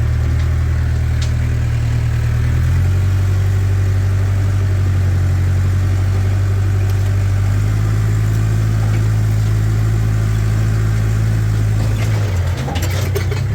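Mahindra tractor's diesel engine running steadily with the bush hog, its pitch shifting a few times and dipping briefly near the end.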